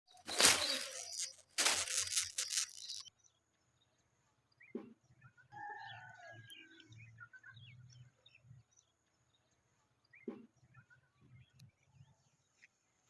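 Two loud bursts of rustling noise in the first three seconds, then faint, short bird calls and squawks from greater coucals at the nest, with a clearer call about six seconds in.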